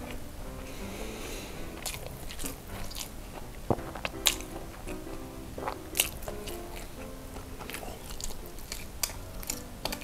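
Close-miked chewing and biting of a jumbo cheese sausage, with sharp wet mouth clicks every second or two, over soft background music.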